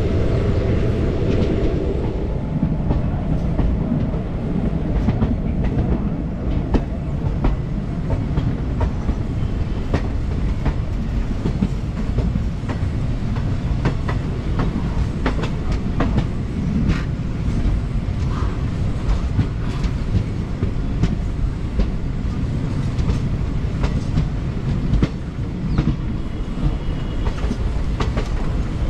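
Indian Railways sleeper train running along the track: a steady rumble with the wheels clattering irregularly over rail joints and points.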